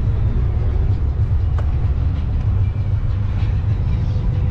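Steady low rumble of wind buffeting the microphone during a bicycle ride.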